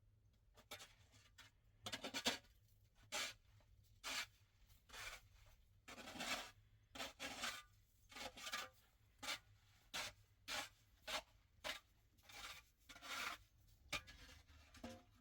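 A faint, uneven series of short scraping or rubbing strokes, roughly one every half to one second.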